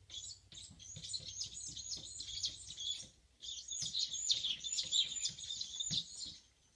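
A small bird twittering in rapid, high chirping phrases, in two bouts of about three seconds each with a short break between them. A few soft thumps sound underneath.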